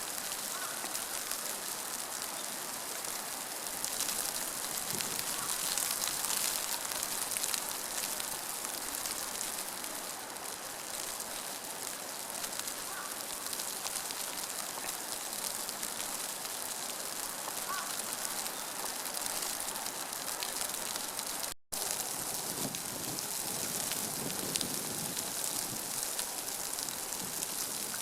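Steady hiss of water outdoors, with fine faint ticks throughout, broken once by a brief dropout about two-thirds of the way through.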